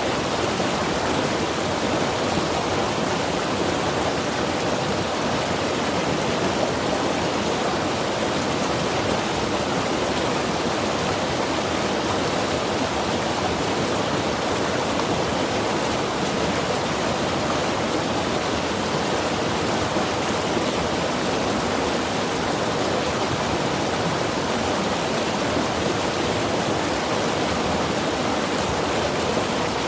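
Mountain river rushing over rocks, a steady, even roar of flowing water.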